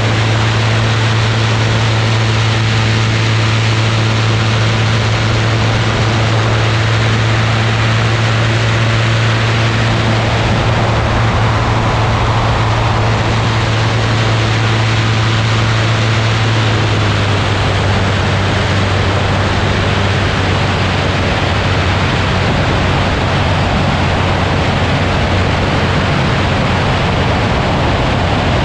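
Ultralight aircraft engine running steadily in flight, with loud wind rushing over the microphone. About two-thirds of the way through, the engine note shifts slightly lower.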